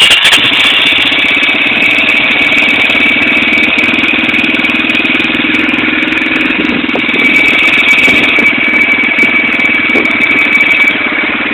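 Warmed-up dirt bike engine firing up at the very start and then idling steadily with a fast, even beat.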